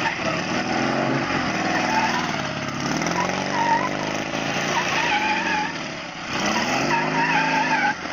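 Motorcycle engine revving, its pitch rising and falling in several swells, with a wavering higher tone over it.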